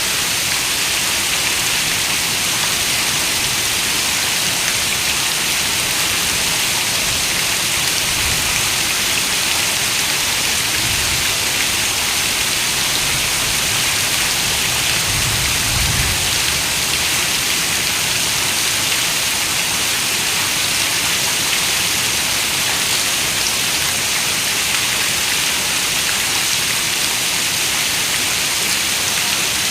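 Steady rain falling on a window, an even hiss of many raindrops, with a soft low rumble swelling briefly near the middle.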